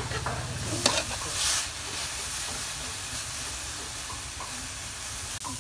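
Minced lemongrass, chilies and garlic sizzling in a hot metal wok as a metal spatula stirs them, with a sharp clack of the spatula on the pan about a second in.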